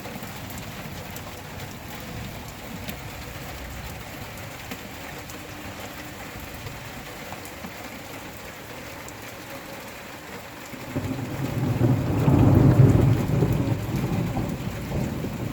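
Steady rain falling, with a low roll of thunder that swells about eleven seconds in and slowly fades.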